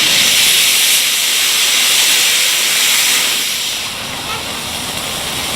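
Home-made solid-fuel rocket motor burning on a static test: a loud, steady rushing hiss for about four seconds that then tails off to a quieter hiss as the burn ends and the delay charge burns.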